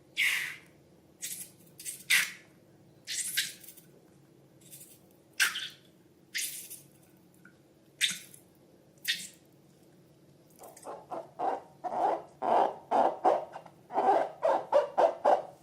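Slime being squeezed and worked by hand, with wet squishes about once a second. About eleven seconds in, these turn into a quick run of squelches, three or four a second.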